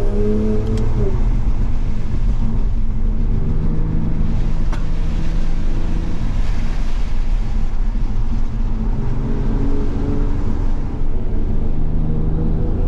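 Toyota Supra MK5's turbocharged inline-six engine running under load while driving, its pitch stepping and sliding up and down as it revs and changes gear. Steady road and tyre noise on the wet road lies underneath, with a brief rise in hiss partway through and a couple of small clicks.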